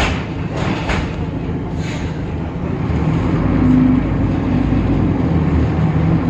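Temsa Avenue LF city bus running, its DAF PR 228 diesel engine and ZF automatic driveline giving a steady rumble. There are a few short rattles in the first two seconds, and a humming drone comes in about three and a half seconds in.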